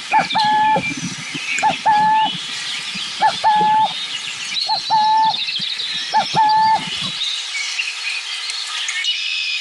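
Burrowing owl calling five times, about every second and a half, each call a short note followed by a longer held note. The calls stop about seven seconds in, while small birds chirp in the background.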